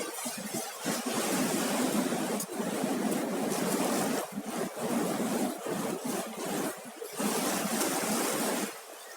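Sea surf breaking and washing up the beach: a continuous rushing that swells and eases, dropping away briefly near the end.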